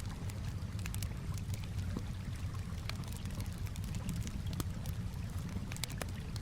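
Campfire crackling, with frequent irregular sharp pops and snaps, over a steady low rumble and the gentle sound of calm water.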